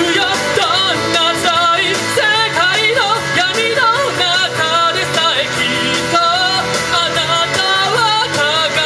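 A singer performing a rock-style anime song live, the voice wavering with vibrato over a loud band accompaniment with guitar and a steady drum beat.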